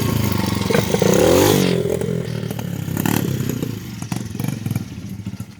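Dirt bike engine revving briefly about a second in, then the sound fades steadily away.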